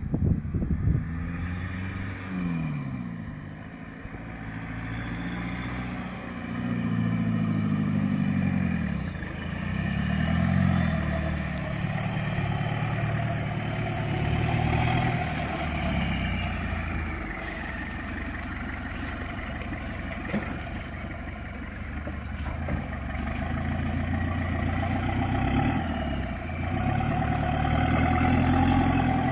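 Naturally aspirated 2.4-litre diesel engine of a 1983 Toyota Hilux 4x4 driving, the revs rising and falling in repeated surges as it pulls away and eases off. A few knocks sound in the first second.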